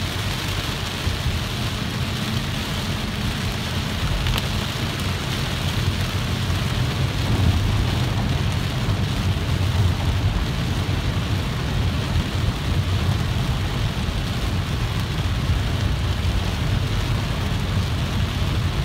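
Heavy rain and a car driving through a flooded road: a steady wash of rain and tyre spray over a constant low rumble, heard from inside the car.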